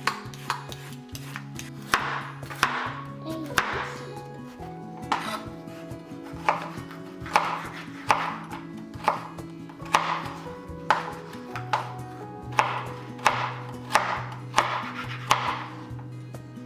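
Knife cutting vegetables on a chopping board: a steady run of crisp cuts, roughly one to one and a half a second, each with a short crunch as the blade goes through.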